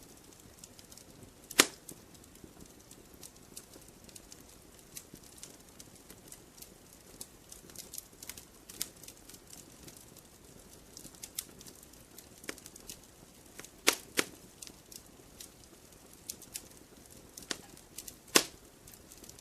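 Wood fire crackling in a fireplace: scattered sharp pops and snaps over a faint low hiss. The loudest pops come about a second and a half in, as a close pair around fourteen seconds, and once near the end.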